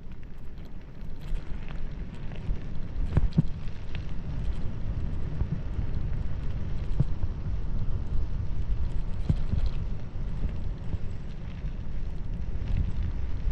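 Wind buffeting the microphone of a bicycle moving at speed downhill: a steady, fluttering low rumble, with a few sharp knocks, about three seconds in, seven seconds in and nine seconds in.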